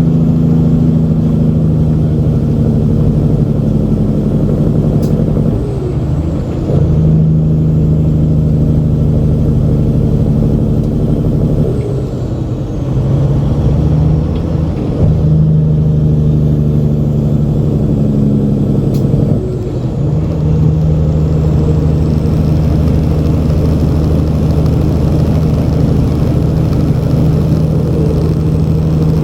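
Semi truck's diesel engine pulling, its note breaking off and resetting at a handful of gear changes, each with a short dip in loudness.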